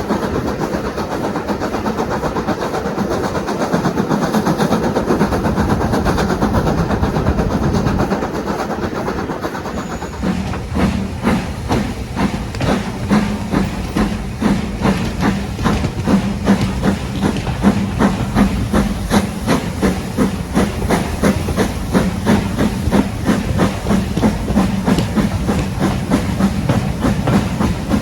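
Steam train: a steady hiss of steam, changing about ten seconds in to a regular rhythmic beat as the train works along.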